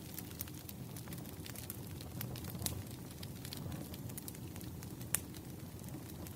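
Firewood burning in a campfire: a steady low rush of flame with frequent small crackles, and a sharper pop about five seconds in.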